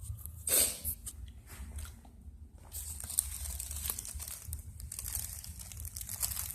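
A plastic bag crinkling and rustling as it is handled, in irregular crackles, with one louder burst about half a second in and denser crinkling through the second half.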